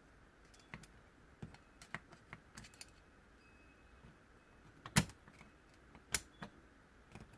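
Scattered light clicks and taps of small hand tools on the metal parts of a dismantled VW Scirocco steering lock and ignition barrel, as a stuck piece is worked loose, with two sharper clicks about five and six seconds in.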